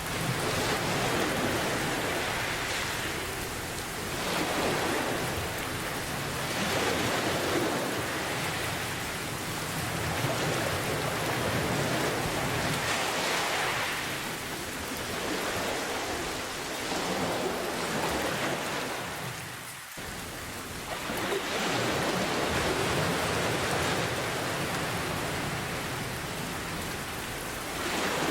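Steady heavy rain mixed with ocean waves, the hiss swelling and ebbing every few seconds as the surf rolls in. The level dips briefly about two-thirds of the way through.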